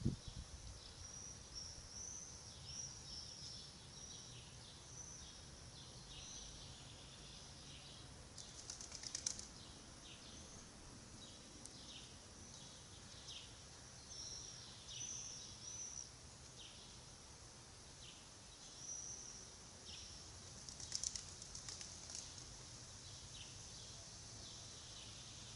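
Small birds chirping over and over in high, short calls, with two brief bouts of rapid fluttering, about nine and twenty-one seconds in, that are the loudest sounds.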